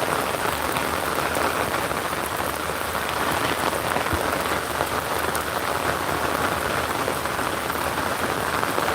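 Steady heavy rain falling, a dense even hiss of countless drops pattering on surfaces.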